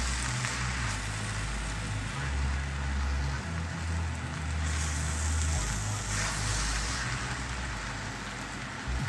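Crumbled milk shark meat sizzling steadily as it is stir-fried in a wok, a spatula stirring it through.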